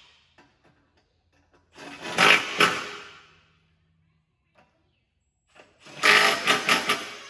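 Impact wrench running skid-plate bolts up tight, in two bursts of rapid hammering about a second and a half each: one about two seconds in, and another near the end.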